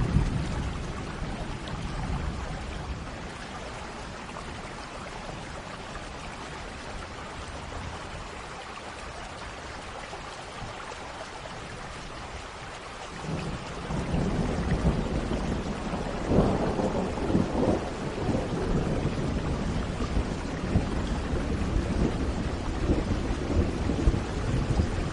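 Steady rain falling. About halfway through, a low rumble of thunder comes in and keeps rolling, loudest a few seconds after it starts.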